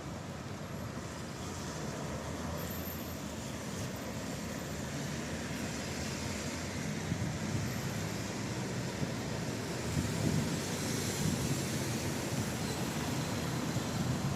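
Rain falling in a steady hiss, with a low rumble underneath that builds and grows louder over the second half.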